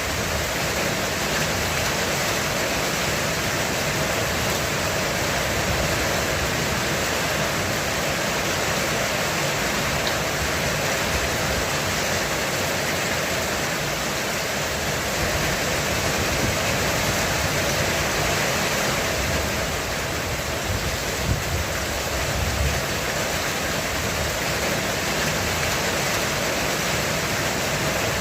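Heavy rain falling steadily on a roof: a dense, even hiss with no breaks.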